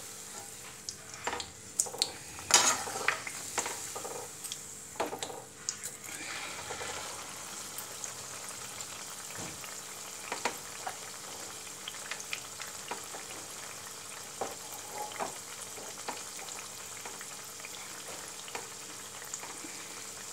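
A malpua batter pancake shallow-frying in hot oil in a flat pan over a low flame: a steady sizzle with sharp crackles and pops, most frequent and loudest in the first six seconds.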